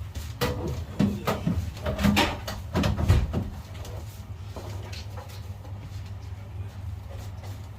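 A run of knocks and clunks, like things being handled or set down, over a steady low hum; the knocks stop about halfway through and the hum goes on.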